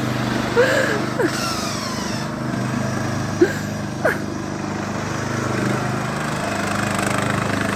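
Briggs & Stratton engine of a Craftsman riding lawn mower running steadily, with a few short chirp-like squeaks over it.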